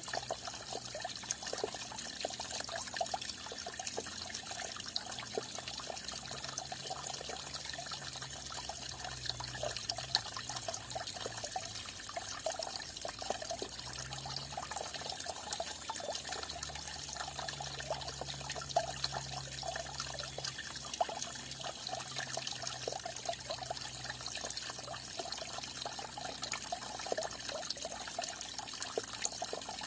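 Falling water trickling and splashing steadily, a continuous patter of small splashes without a break.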